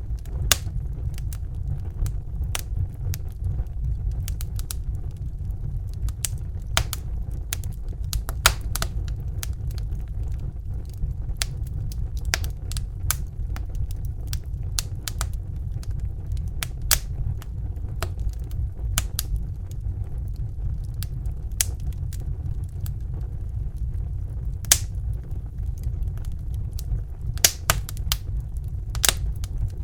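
Crackling fire: irregular sharp pops and crackles, a few louder snaps among them, over a steady low rumble.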